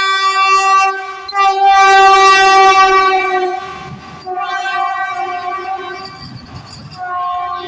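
Train horn blowing in long, loud blasts: one held blast, a short break, then the loudest blast about a second and a half in, followed by fainter blasts near the end, with the low rumble of the moving train beneath.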